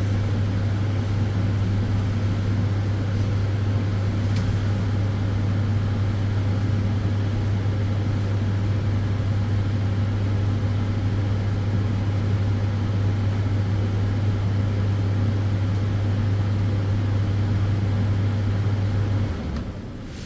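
Solarium sunbed running: a steady rush of cooling-fan noise over a strong low hum from the tanning lamps. About nineteen seconds in the hum cuts out and the sound drops to a quieter fan noise, as the sunbed switches off.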